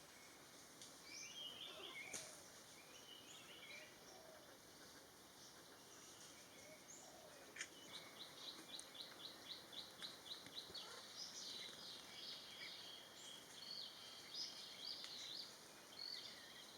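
Faint birdsong in jungle ambience: scattered high chirps, then, about halfway in, a fast run of evenly repeated high notes followed by varied chirping calls.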